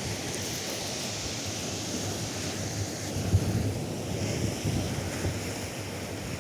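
Atlantic surf washing on a sandy beach, a steady hiss of breaking waves, with wind buffeting the microphone as an uneven low rumble. A brief louder thump about halfway through.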